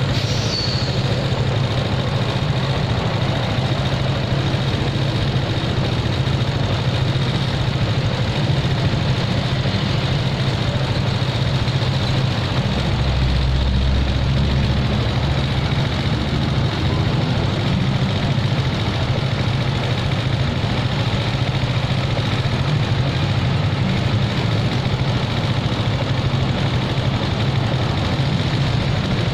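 Motorcycle engine idling steadily amid street traffic, with a deeper rumble swelling for a few seconds around the middle.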